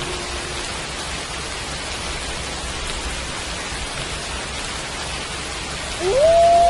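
Steady rain falling. A wolf's howl trails off, falling in pitch, within the first half second. Near the end another howl begins, sliding quickly up and then holding one steady note.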